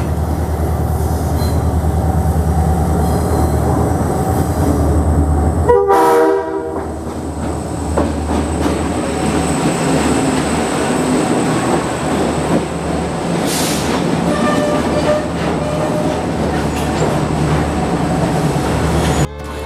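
Diesel locomotives hauling a relief train pass close by, engines running with a steady low rumble and the wheels clacking over the rails. There is a short horn blast about six seconds in.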